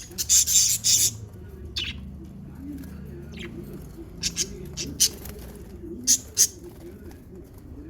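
Pet lovebirds giving short, sharp, high chirps and squawks: a loud cluster in the first second, then single chirps every second or so.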